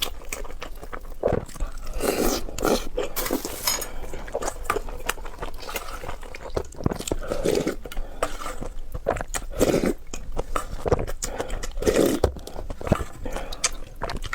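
Close-miked eating: chewing and biting food, a steady run of short mouth clicks with louder mouthfuls about 2, 7, 10 and 12 seconds in.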